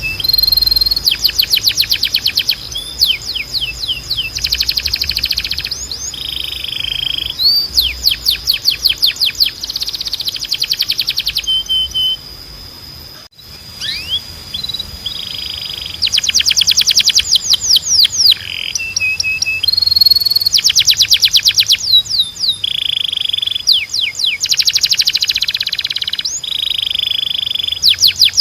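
Domestic canary singing: fast trills of rapidly repeated notes alternating with short whistled notes, with a brief pause about thirteen seconds in.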